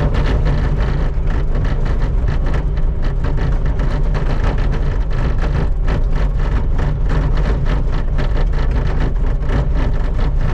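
Skid steer engine running steadily under load, with continuous rapid scraping and clatter from the bucket being dragged over the snow-covered pavement.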